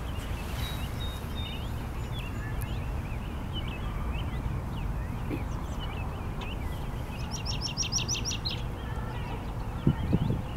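Outdoor ambience of small birds chirping in scattered short calls over a steady low rumble, with one rapid trill of about eight notes a second about three-quarters of the way in. A few low thumps near the end.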